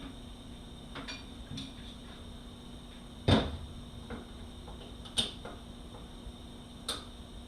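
Metal transmission parts and tools clinking and clanking on a workbench during a 6L80E teardown: a few light knocks, one loud clank about a third of the way in and two sharper clinks later.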